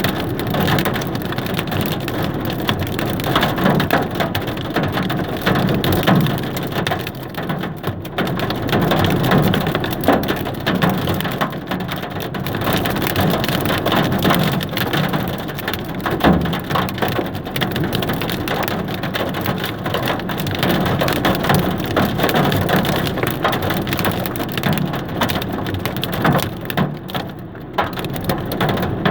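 Hail and heavy rain pelting down: a dense, steady clatter of countless small hard impacts.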